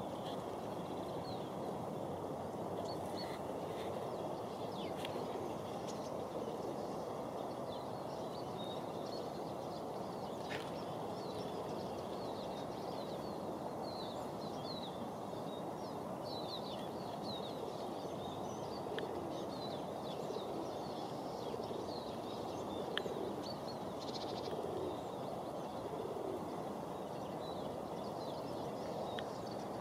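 Small birds chirping, with many short high calls scattered through and thickest in the middle, over a steady low rumble of outdoor background noise. A few faint clicks.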